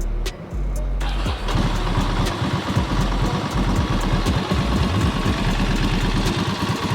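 2005 Ducati Monster S2R 800's air-cooled V-twin engine starting: it catches about a second in and idles with a rapid, steady beat. The engine carries an extraneous mechanical noise that the owner puts down to a worn timing bearing.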